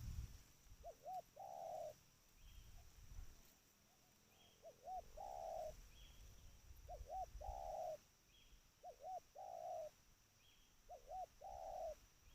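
Spotted dove (tekukur) cooing: five phrases about two seconds apart, each two short notes followed by a longer rolling coo.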